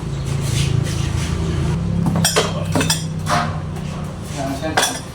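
Metal clinking and clanking in a few sharp strikes, over a steady low hum.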